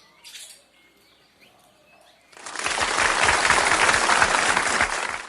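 A flock of small birds taking off together in a loud whirr of wingbeats. It starts about two seconds in and lasts about three seconds.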